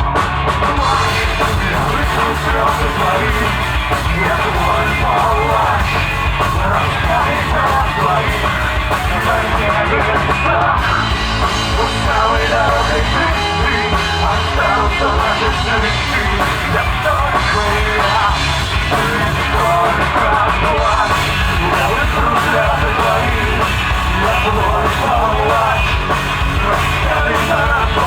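Alternative rock band playing live, with drum kit, guitars and bass and a singer whose voice carries at times. The mix stays loud and steady throughout.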